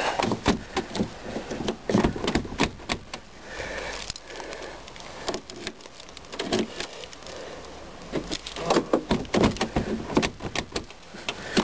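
Irregular clicks, rattles and knocks of a car door's handle and latch being worked on the passenger door of a 2001 Ford Focus wagon. The door will open only from the inside, which the owner puts down to a frozen or broken outside handle.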